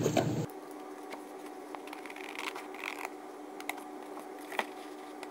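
Scissors cutting paper: a few faint, separate snips and paper scrapes, spread out with pauses between them.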